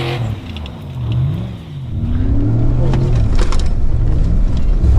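Chevrolet Silverado pickup's engine revving up and down repeatedly as the truck is driven hard through a corner. It eases off about half a second in and climbs back up from about two seconds in.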